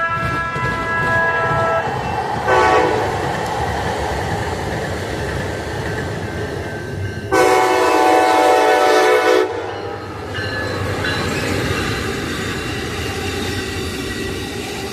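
Passenger train passing with a steady rumble of wheels on the rails, sounding its horn: a blast that ends about two seconds in, a short blast soon after, then a long loud blast from about seven to nine and a half seconds.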